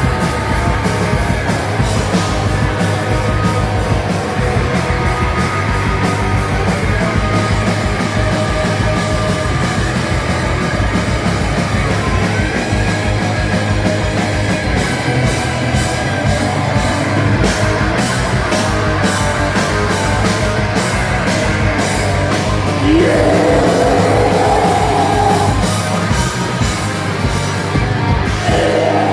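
Loud live rock band playing: drums at a fast steady beat under bass and electric guitars, with a shouted vocal.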